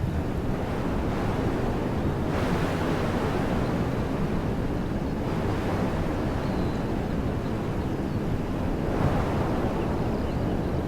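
Wind blowing through the trees of a woodland, a steady rushing that swells in gusts about two seconds in and again near the end, over a low rumble of wind on the microphone. A faint bird chirp is heard about two-thirds of the way through.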